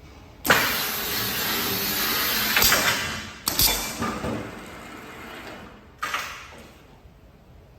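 Tile cutting machine at work: a loud, scraping hiss starts suddenly about half a second in and runs for some two and a half seconds. Sharp knocks follow, twice close together after about three and a half seconds and once more about six seconds in.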